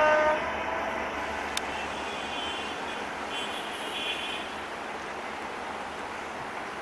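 Passenger train of LHB coaches rolling away over the rails: a steady rushing rumble of wheels on track that slowly fades as the train recedes. There is a short pitched tone at the very start and faint high beeping from about two to four seconds in.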